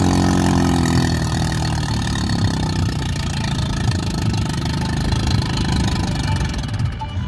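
Mahindra 575 DI tractor's four-cylinder diesel engine running. Its steady, even note gives way about a second in to a rougher, slightly quieter run.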